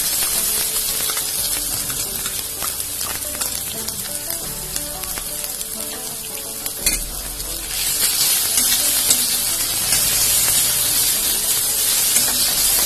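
Oil sizzling in a metal wok as boiled grated carrot is added to frying onion paste and green chillies, then stirred with a metal spatula. The sizzle grows louder about two-thirds of the way through, with a single knock shortly before.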